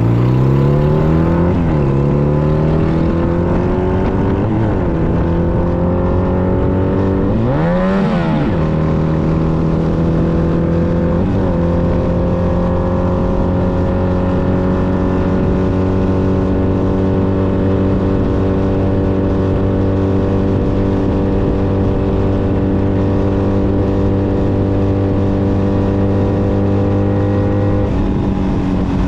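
Honda Nighthawk 250's air-cooled parallel-twin engine pulling away through the gears, with the revs dropping back at each of several upshifts in the first dozen seconds. It then settles into a steady cruise with the revs slowly creeping up, and they drop again near the end as the throttle eases, all under steady wind and road noise.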